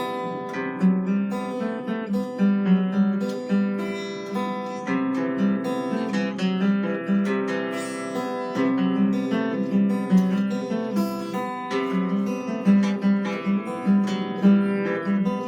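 Acoustic guitar playing a continuous run of plucked notes over repeating low notes.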